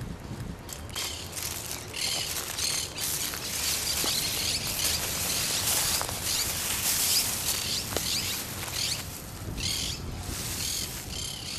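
Birds chirping in short repeated calls over a dense, high-pitched hiss that swells in the middle: a nature soundscape.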